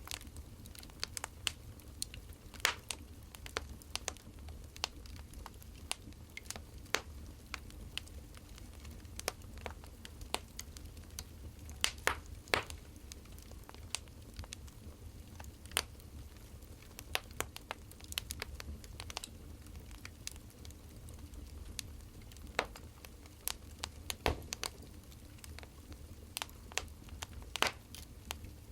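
Burning firewood crackling, with irregular sharp pops over a low steady rumble.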